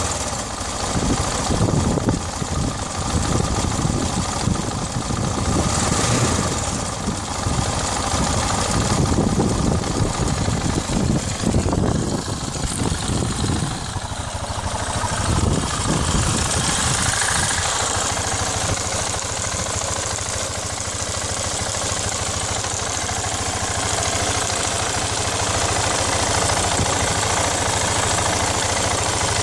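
KTM 690 SM's single-cylinder engine running, uneven and pulsing with small throttle changes for the first half, then settling into a steady idle a little past halfway.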